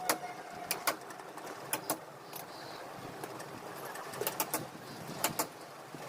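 Sharp clicks and knocks, a dozen or so, many coming in quick pairs, over a steady background hiss.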